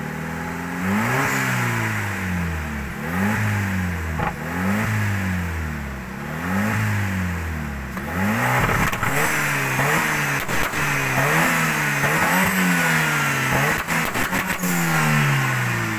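Off-road 4x4's engine revved again and again, its pitch climbing and dropping about once a second. Sharp knocks and clanks come in the second half.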